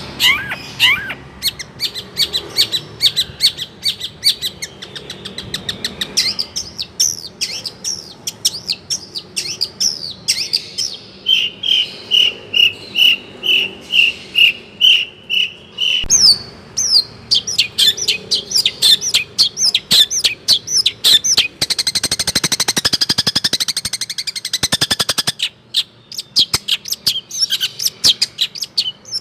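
Long-tailed shrike singing a fast, varied song packed with mimicked calls, including swiftlet calls. About eleven seconds in comes a run of evenly repeated, steady notes, and later a dense, rapid twittering passage.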